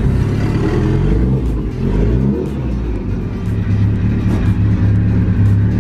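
Mitsubishi Lancer Evolution VIII's turbocharged four-cylinder engine running as the car creeps forward. Its pitch rises and falls about two seconds in, then holds steady.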